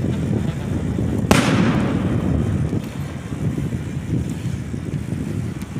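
A single firework bang about a second in, sharp and trailing off, over a steady rush of wind on the microphone and road rumble from riding a bicycle.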